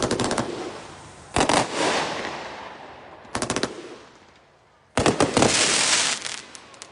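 Consumer multi-shot fireworks cake firing in rapid volleys. Four bursts of quick reports, each followed by a fading tail, with the longest volley, about two seconds, near the end.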